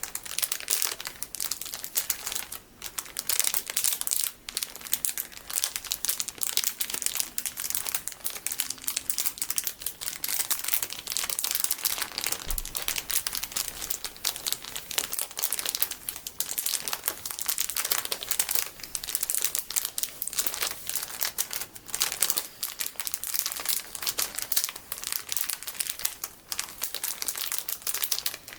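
Plastic packaging full of golden sticky beads being crinkled, a dense, continuous crackling.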